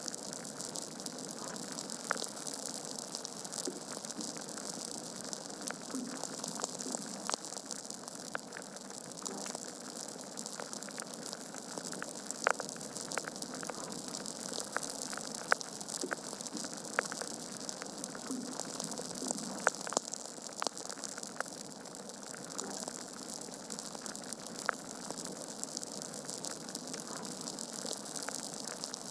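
Wood fire burning in a fireplace: a steady hiss with irregular sharp crackles and pops from the logs, a few louder pops through the middle.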